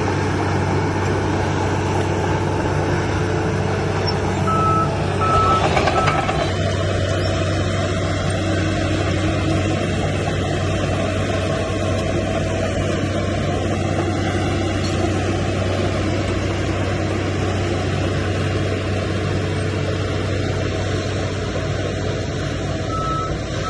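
Heavy diesel earthmoving machine running steadily, with a backup alarm beeping three times about five seconds in and again near the end. The engine swells briefly louder around the first beeps.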